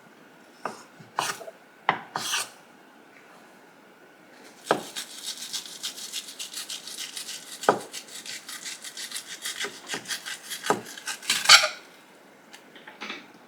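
A few separate knocks, then a run of quick rasping scraping strokes, several a second, for about seven seconds, ending with a louder stroke.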